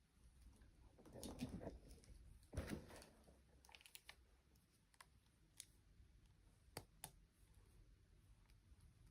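Faint handling sounds of small objects: two brief rustles in the first three seconds, then scattered light clicks about once a second.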